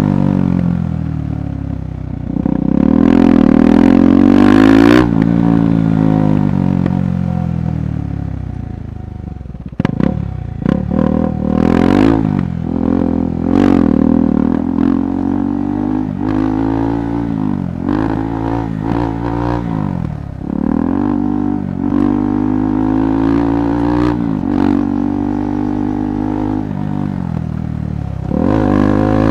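KTM 390 Adventure Rally's single-cylinder engine revving up and easing off again and again on an off-road trail, with the longest climb in revs a few seconds in. Sharp knocks and clatter come through the middle as the bike rides over rough ground.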